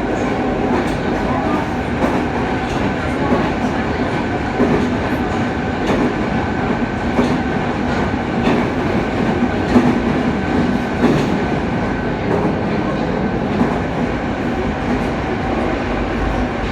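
Yokohama Municipal Subway Blue Line train running at speed between stations: a steady rumble of wheels and running gear with a faint steady whine, and scattered clicks of the wheels over the rails.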